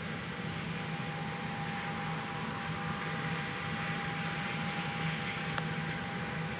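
John Deere S670 combine running steadily while harvesting soybeans: an even mechanical drone with a constant low hum and a faint high whine.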